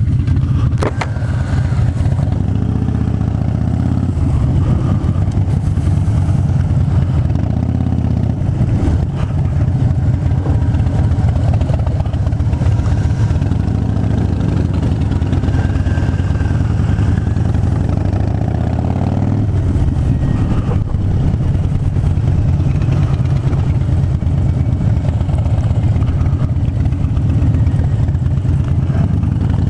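Harley-Davidson Fat Bob's V-twin engine running steadily under way, heard from a helmet camera with wind rush over it.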